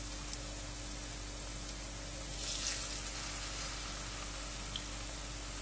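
Pumpkin fritters sizzling steadily in hot vegetable oil in a frying pan over medium heat, with a slightly louder patch about halfway through.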